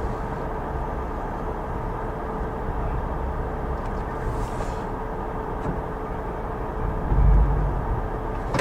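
Steady engine hum at idle with one constant tone over a low rumble; the rumble swells briefly about seven seconds in.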